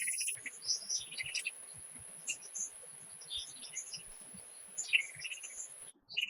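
Small birds giving short, scattered chirps over a faint steady hiss and a thin, steady, high-pitched tone. The hiss and the tone cut off suddenly near the end, leaving only the chirps.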